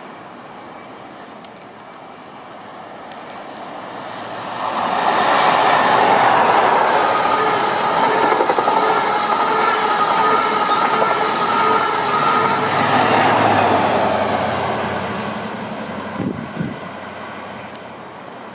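LNER express passenger train passing through the station at speed: the sound builds over a few seconds to a loud rush of wheels on rail with a steady whine and repeated wheel clicks, then fades away.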